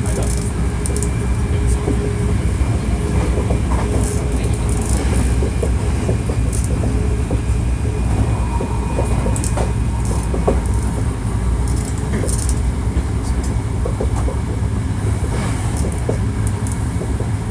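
Hankyu 1300 series electric train car running on the rails, a steady low rumble with scattered clicks from the wheels. Faint steady motor tones come and go over it.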